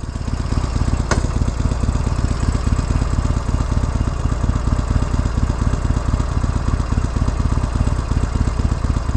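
Harley-Davidson Sportster Iron 883's air-cooled V-twin idling steadily, with a single click about a second in.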